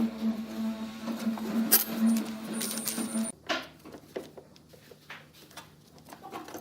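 A steady low tone that cuts off suddenly about three seconds in, with light, sharp clicks and small knocks of hard objects throughout; the clicks carry on alone after the tone stops.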